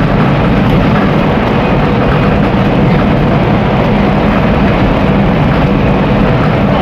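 Scania N270UD OmniDekka double-decker bus running steadily at a constant engine note, with a continuous rush of road and body noise.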